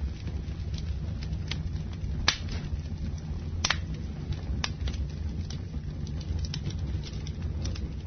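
Campfire burning: a steady low rumble with sharp pops and crackles about once a second, the loudest two pops a little over two and nearly four seconds in.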